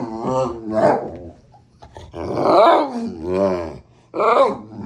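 Large mastiff-mix dog growling and grumbling in play, in about four drawn-out bouts whose pitch rises and falls.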